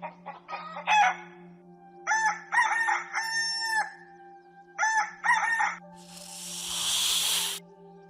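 Rooster crowing twice, a long crow and then a shorter one, followed near the end by a loud hiss lasting about a second and a half.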